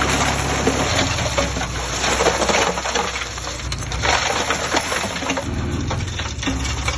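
Earth-moving machinery at work: a diesel engine running low under a dense crackle and crunch of soil and stones being moved.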